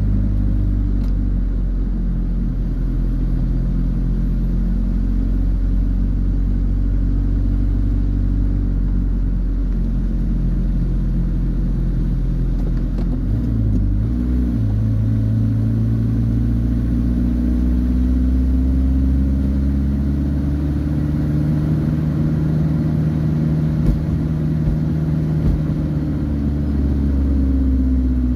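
Engine of the vehicle being driven, running steadily under way with a low hum. About halfway through its pitch shifts to a new note, then slowly rises and falls.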